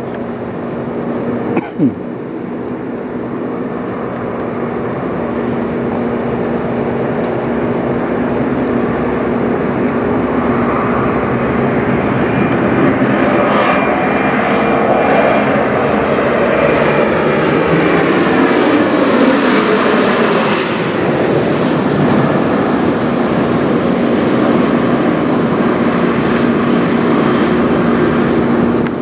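Mitsubishi CRJ900LR regional jet flying over, the whine and roar of its two rear-mounted turbofans growing louder as it approaches. It peaks with a falling pitch sweep as it passes, about 15 to 20 seconds in, and the jet noise stays loud afterward.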